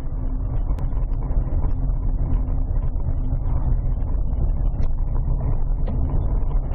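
A car driving, with a steady low rumble of engine and road noise and no impacts.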